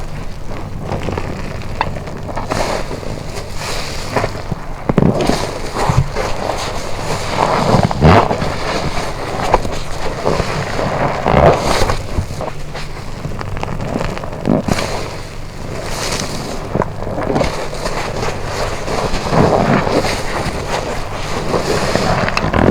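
A wet car wash sponge being squeezed and rinsed in water, with wet squelching and running water that swells into louder squishes every few seconds.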